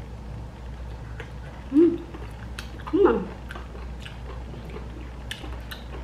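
Close-up chewing and mouth sounds of a person eating by hand, with small wet clicks and smacks. Two short voiced sounds from the eater, about two and three seconds in, are the loudest moments.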